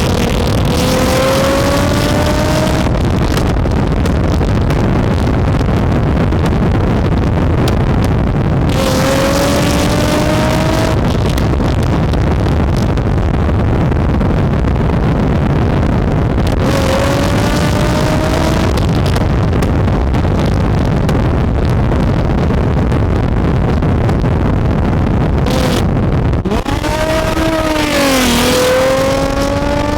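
Infiniti G35's V6 through a Tomei Expreme Ti titanium Y-back exhaust, pulling hard: the engine note climbs in pitch several times, dips and rises again near the end, over loud steady road and wind noise.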